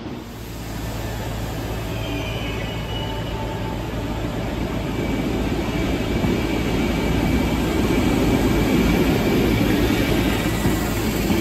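Merseyrail Class 507 electric multiple unit pulling away from the platform, its running rumble building steadily as it gathers speed.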